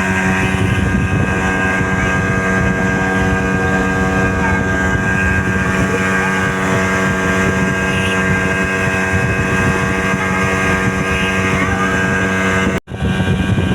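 Speedboat engine running at a steady pitch under way, with wind and water noise. The sound cuts out briefly near the end.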